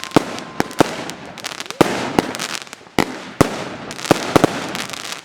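Small consumer firework battery (cake) firing: a fast, irregular run of sharp bangs with crackling in between.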